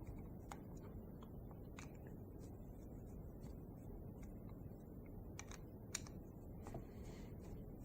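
Faint, scattered small clicks and taps of screwdrivers and tiny metal engine parts being handled during the teardown of a Cox .049 model diesel engine, with one sharper tap about six seconds in.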